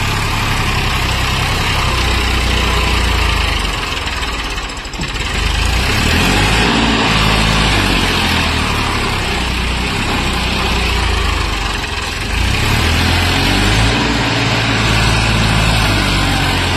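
Eicher's diesel engine labouring under full load on a climb. Its note sags briefly about five seconds in and again around twelve seconds, then picks back up, the engine straining and short of breath.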